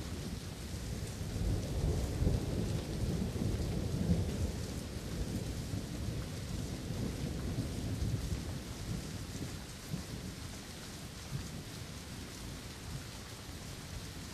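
A long, low roll of thunder over steady rain. The rumble swells right at the start, is loudest two to four seconds in, and dies away over the next several seconds, leaving the rain's even hiss.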